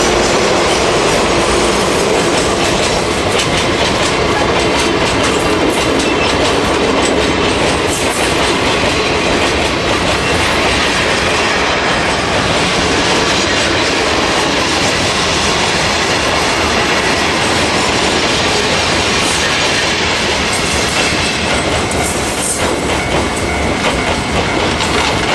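Freight train running on the rails with a steady, loud rumble and clickety-clack of wheels over the rail joints.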